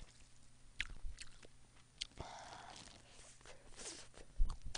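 Close-miked eating of a rice ball: soft chewing with a few short wet clicks, and a low thump near the end.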